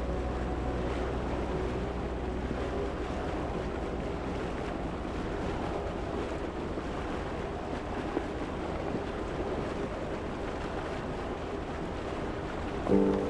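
Steady rush of water and wind aboard a sailboat under way, with wind buffeting the microphone. Music comes in just before the end.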